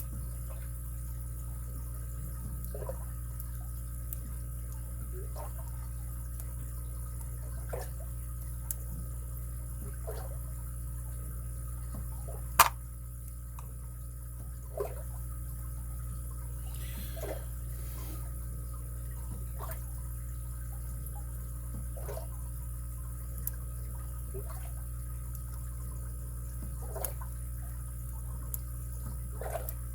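Faint metallic ticks and clicks of lock picks and a tension wrench working the pins of a padlock, every couple of seconds, with one sharper click about twelve seconds in, over a steady low hum.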